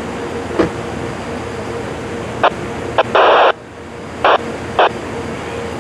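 Railroad scanner radio hissing, with several short bursts of static that start and cut off abruptly, the longest about half a second just past the middle.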